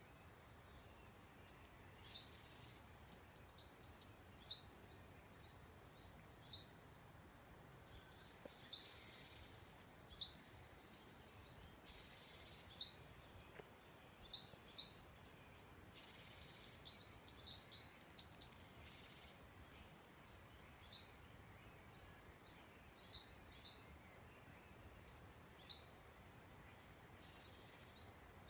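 Wild birds singing in a forest: short, high, sweeping song phrases repeated about every two seconds, with a denser run of calls a little past halfway, over a faint steady hiss.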